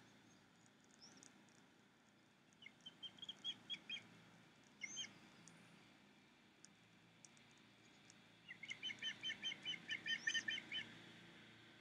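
Birds calling: two runs of quick, evenly spaced chirps, the second longer at about six a second, with a few short rising whistles between them.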